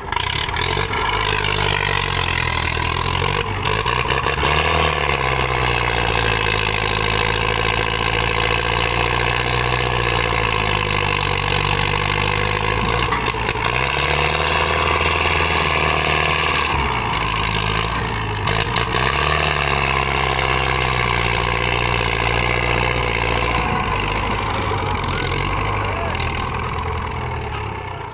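Tractor diesel engine running loud and hard, its pitch dipping and recovering a few times as it labours.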